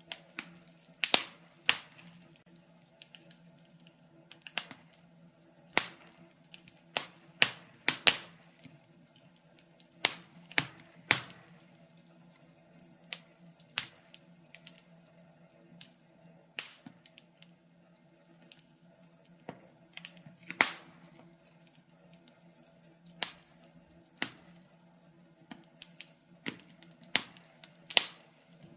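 Wood fire in a fireplace crackling, with irregular sharp pops and snaps, some single and some in quick clusters, over a faint steady low hum.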